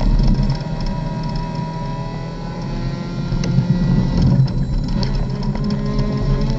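Race car engine heard from inside the cockpit, pulling under acceleration and then easing off about four and a half seconds in as the car slows.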